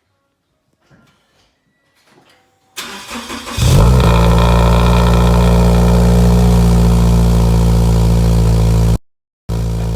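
Scion FR-S's 2.0-litre flat-four cranking briefly and catching about three and a half seconds in, flaring up and then settling into a steady, loud idle through a cat-back muffler delete exhaust. The sound cuts off abruptly twice near the end.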